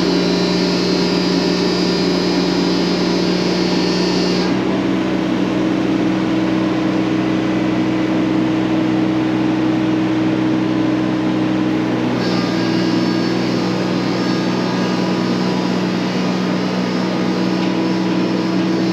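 The engine of a working machine running steadily, with a high hiss that stops about four seconds in and comes back about twelve seconds in, when the engine note also shifts slightly.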